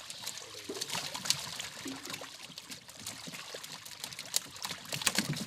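Water trickling and splashing at close range, with irregular sharp splashes and drips throughout.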